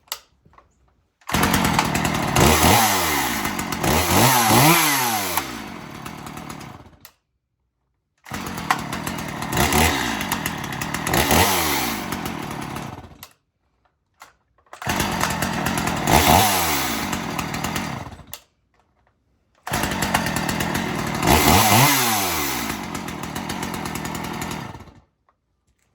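Small two-stroke chainsaw running and being revved, its pitch rising and falling with each blip of the throttle. The sound comes in four stretches of a few seconds each, broken by sudden short silences.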